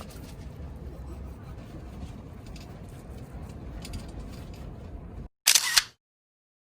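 Low wind rumble on the microphone over outdoor background noise, cutting off abruptly about five seconds in. A moment later comes a loud, quick double click of a camera shutter.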